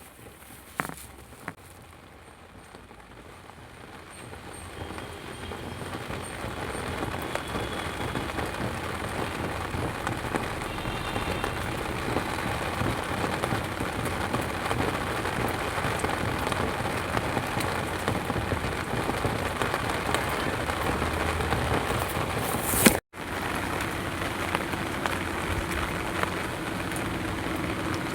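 Monsoon rain falling, swelling over the first several seconds into a steady downpour. About three-quarters of the way through there is a sharp click and the sound cuts out for an instant.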